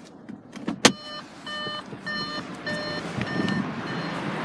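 A sharp click, then an Audi A4's electronic warning chime beeping about twice a second, fading near the end, as background traffic noise grows.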